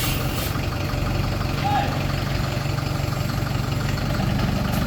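Heavy truck's engine running steadily at low revs, a constant low drone.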